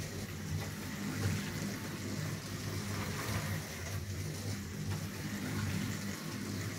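Scalextric slot cars running around the track, their small electric motors whirring with a steady low buzz, running on power fed through a variable-speed model-railway controller.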